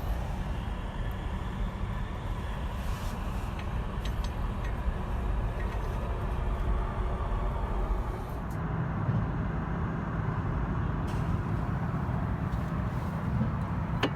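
Steady rumble of motor-vehicle road traffic, with no single event standing out.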